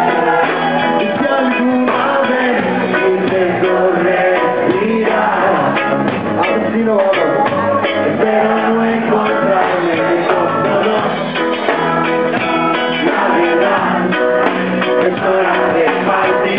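A reggae band playing live.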